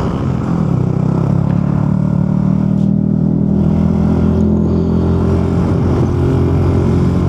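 Motorcycle engine running at a steady cruising speed, heard from a helmet-mounted camera while riding.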